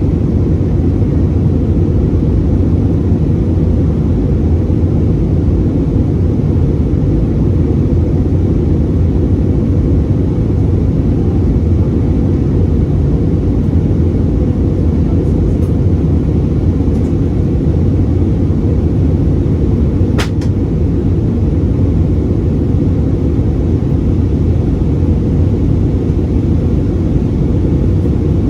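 Steady low rumble of an Airbus A320 heard from inside the cabin, engines and airflow running at an even level. A single sharp click about twenty seconds in.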